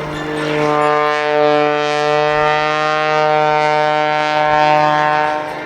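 Oracle Challenger III aerobatic biplane's piston engine and propeller droning steadily at low speed, the pitch sinking slightly and then holding.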